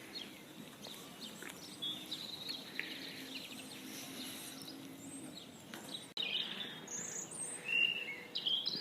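Small birds chirping and singing, with short high calls and trills throughout. A faint low hum sits under the first half. The sound breaks off abruptly about six seconds in and returns with louder, busier chirping.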